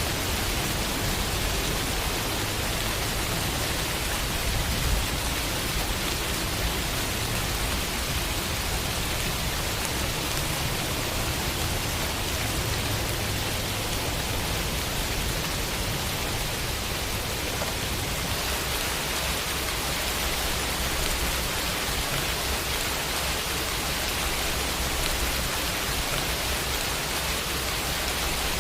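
Steady summer rainfall on a window, an even hiss of drops with no distinct impacts.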